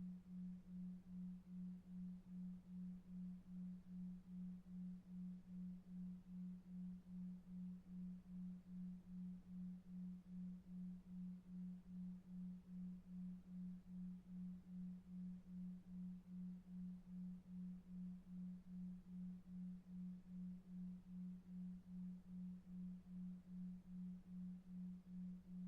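Synthetic sleep tone: a low, pure sine tone pulsing evenly about two and a half times a second, the 2.5 Hz delta-wave beat, over faint brown noise.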